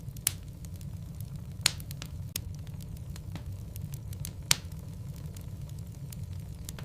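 Wood logs burning in a fireplace: a steady low rumble of the fire with scattered sharp crackles and pops. The two loudest pops come about a second and a half in and again after four seconds.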